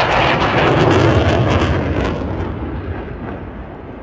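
RAF Eurofighter Typhoon's twin turbofan jets making a loud low pass: a dense roar that peaks in the first two seconds and then fades.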